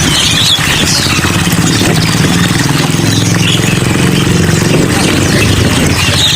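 Many caged songbirds chirping and calling over a steady hiss, with a low engine running underneath, strongest in the middle.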